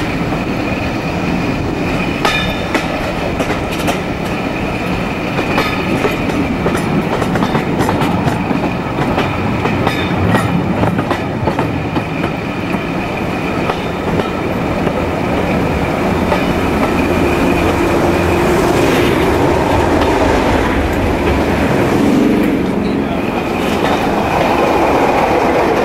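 Passenger coach running along the line, wheels clicking over rail joints, heard through an open carriage window. In the second half a diesel locomotive on the adjacent track passes close by, its engine growing louder.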